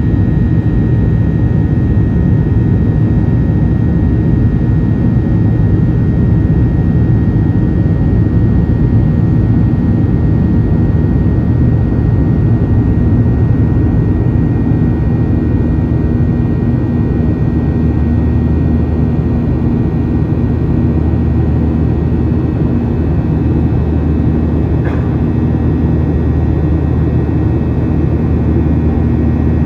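Cabin noise of a Boeing 737-800 climbing after takeoff: its CFM56-7B turbofan engines and the rushing airflow make a steady, loud drone that is strongest in the low range, with faint steady whines above it. A faint click comes near the end.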